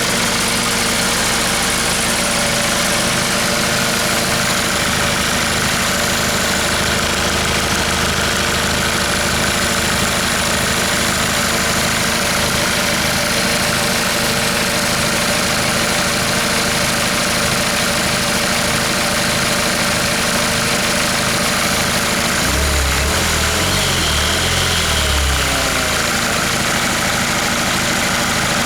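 Hyundai D4CB 2.5-litre four-cylinder diesel engine idling steadily while its oil pressure is checked. About three-quarters of the way through, the engine speed wavers for a few seconds, then settles back to a steady idle.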